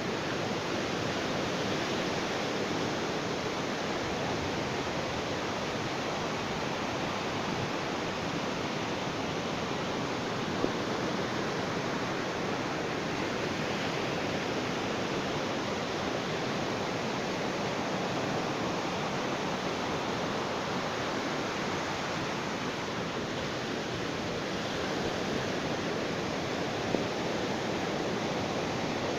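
Ocean surf washing steadily onto a beach, a continuous rushing with only slight swells in level. Two brief faint ticks sound, about ten seconds in and near the end.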